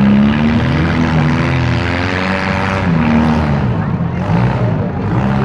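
Several demolition derby cars' engines revving hard together, their pitch rising and falling as the cars push and manoeuvre against each other.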